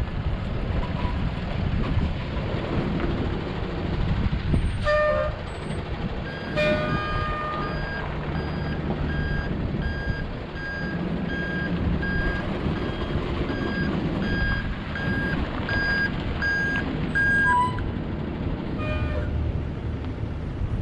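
Ford F750 water truck running, its reversing alarm beeping at an even pace, about one and a half beeps a second, from about seven seconds in to near the end, over a steady engine rumble. A few short, high chirps are also heard, near the start and near the end.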